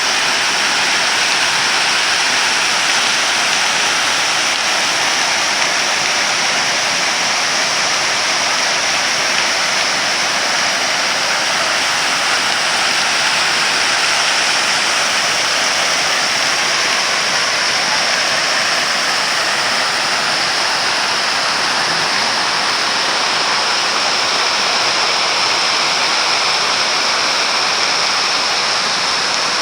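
The Dzhur-Dzhur waterfall pouring: a loud, steady rush of falling water that does not change.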